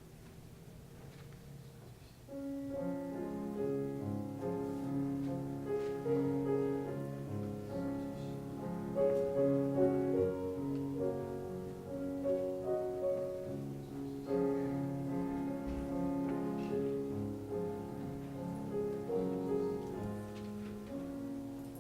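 Piano playing slow, sustained chords, quiet at first and then fuller and louder from about two seconds in.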